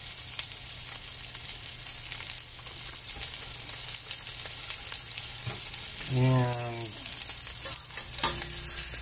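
Pork chop sizzling steadily in hot canola oil in a frying pan. A few sharp scrapes and clicks near the end as a metal spatula slides under the chop.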